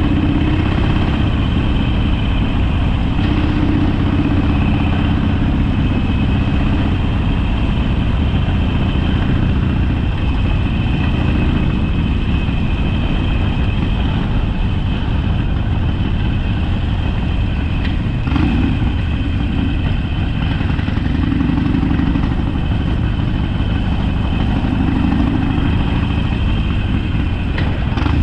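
Harley-Davidson Sportster's V-twin engine running steadily, its note swelling and easing a little now and then.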